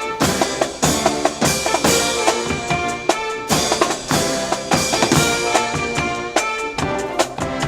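Brass band music: brass instruments playing held chords and a melody over a busy beat of snare and bass drums.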